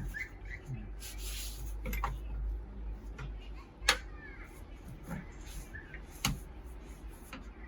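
Hands cleaning and handling the metal parts of a vintage slicer: a short hiss about a second in, then three sharp clicks or knocks a couple of seconds apart, over a steady low hum.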